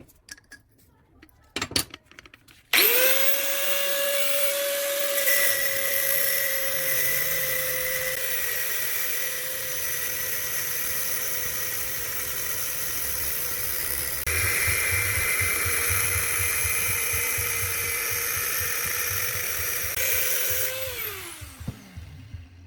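An electric power tool motor starts about three seconds in, running with a steady whine for some eighteen seconds. It then switches off and runs down, its pitch falling, near the end. A few short clicks and knocks come before it starts.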